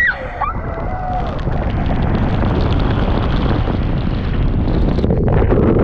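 Loud rushing of water and wind buffeting the microphone while riding down a water slide. It builds over the first second or two and then holds steady.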